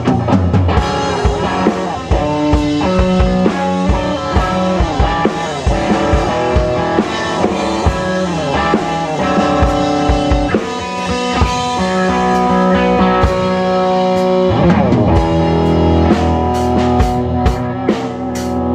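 Live rock jam with guitar and drum kit playing together, held notes over a steady drum pattern, with a swooping slide in pitch about fifteen seconds in.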